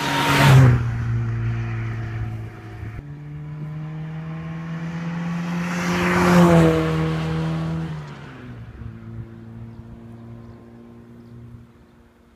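1997 Rover Mini Cooper's 1275 cc A-series engine, run through a catalyst-less BMC works-type exhaust, driven past at speed twice. It passes close about half a second in and again around six and a half seconds, the exhaust note dropping in pitch each time it goes by, then fades away.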